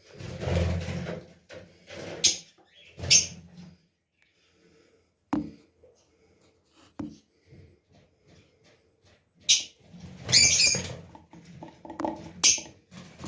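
Birds giving short, squeaky calls in irregular bursts, clustered near the start and again near the end, with a single sharp click about five seconds in.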